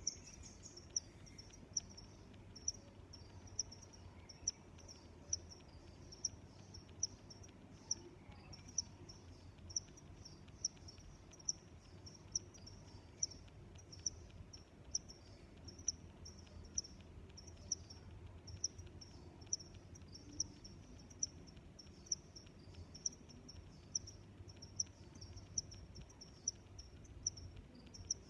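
Crickets chirping in a steady, even rhythm, high-pitched chirps about once a second, over a faint low background hum.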